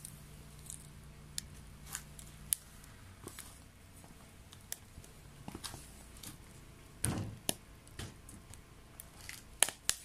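Wet wood burning in a homemade secondary-combustion stove, crackling with sharp irregular pops, and a duller knock about seven seconds in.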